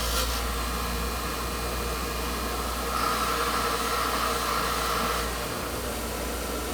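Steady whirring rush of an electric shop tool running, over a low hum, a little louder for a couple of seconds in the middle.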